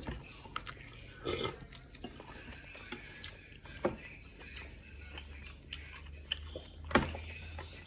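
Close-miked eating sounds: chewing and biting, with scattered small clicks and a sharp knock about seven seconds in.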